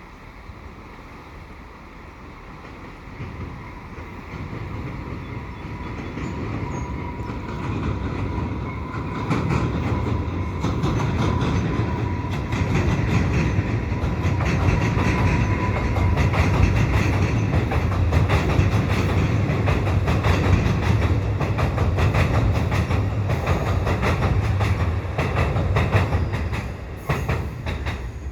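Bombardier MR-90 electric multiple-unit commuter train crossing a steel truss bridge: a rumble that builds over several seconds into a loud rattle with rapid clickety-clack of wheels over rail joints, then drops off near the end. A thin steady whine sounds through the first half.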